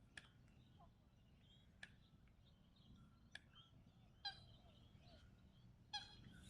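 Faint short calls of an Australasian swamphen: two brief nasal calls about four and six seconds in, among scattered soft chirps. A few sharp clicks sound in between.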